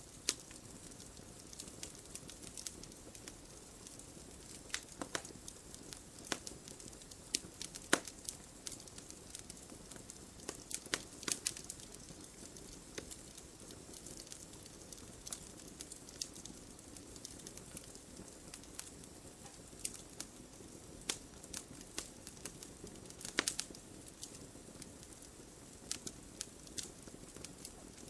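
Wood fire burning in a fireplace: a steady low hiss with frequent sharp, irregular crackles and pops from the burning logs.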